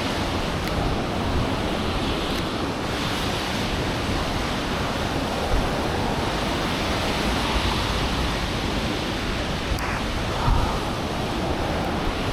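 Storm wind blowing over the microphone in a snowstorm: a steady rushing noise.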